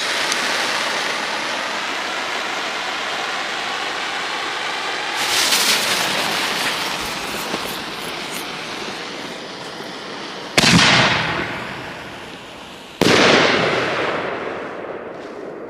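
A 6-inch halo aerial firework shell going off: a steady hiss for about five seconds, then crackling, then two loud booms about two and a half seconds apart, each rolling away in a long echo.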